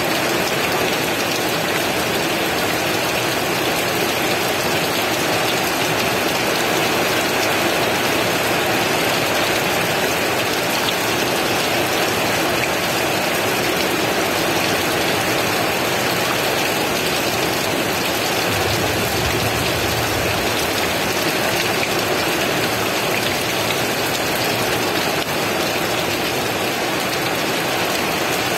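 Heavy rain falling steadily, a dense even hiss of drops. A brief low rumble comes in about two-thirds of the way through.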